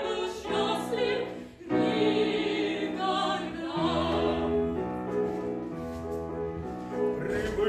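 Operetta number: voices sing the last word of the refrain, «никогда», in an operatic style over instrumental accompaniment. The accompaniment plays on with held notes and a steady bass line, and the sound briefly drops away about a second and a half in.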